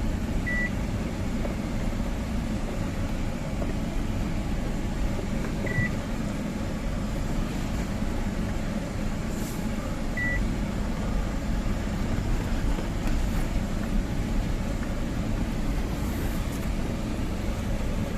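Tata 1512 truck's diesel engine running steadily as the truck drives, heard from inside the cab as a low rumble. A short high beep sounds three times, about every five seconds.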